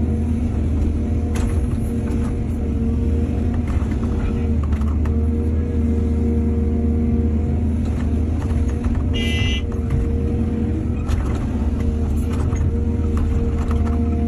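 Excavator's diesel engine running steadily under load, with a few short knocks and a brief high-pitched squeal a little past the middle.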